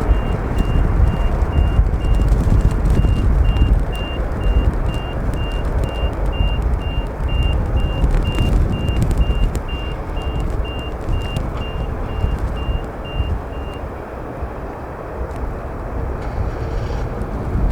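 Wind buffeting the microphone with a loud low rumble, while a vehicle's reversing alarm beeps about twice a second and stops about 14 seconds in.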